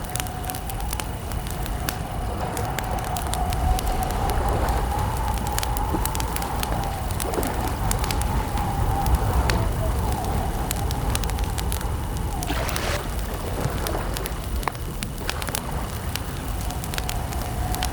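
Campfire crackling, with many small sharp pops and snaps over a steady low rumble of burning wood. A long, wavering tone runs through much of it, and about 13 seconds in a short sound sweeps down in pitch.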